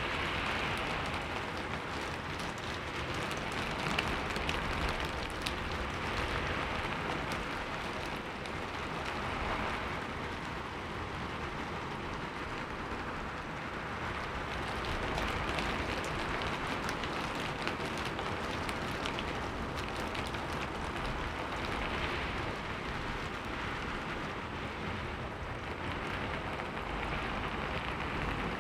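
Heavy rain falling steadily, a dense hiss full of fine drop impacts that swells and eases gently every few seconds.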